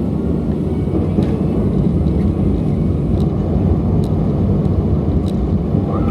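Airbus A350-900 cabin noise on descent: a steady low drone of airflow and engines, with a few faint clicks.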